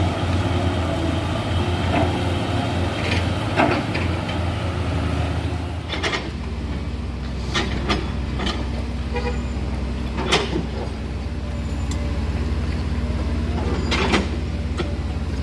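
Heavy diesel engines running steadily, with a low drone that changes its note about six seconds in, and several short sharp knocks over it.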